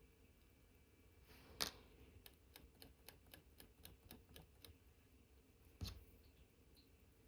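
Small clicks from watch repair work on an Omega Cal.1109 movement: one sharp click, then a quick run of faint, evenly spaced clicks lasting a couple of seconds, then another sharp click.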